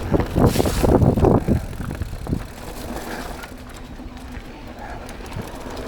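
E-mountain bike riding a dirt trail: a loud clattering rattle of tyres, suspension and frame over rough ground for about the first second and a half, then quieter rolling with a faint steady hum.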